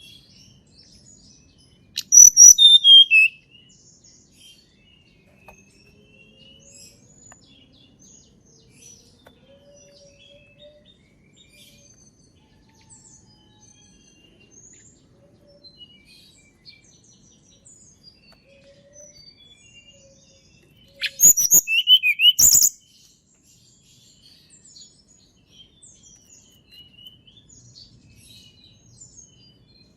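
Tledekan gunung singing two loud, short phrases of high whistled notes that fall in pitch, one about two seconds in and one about twenty-one seconds in. Faint scattered chirps fill the gaps between them.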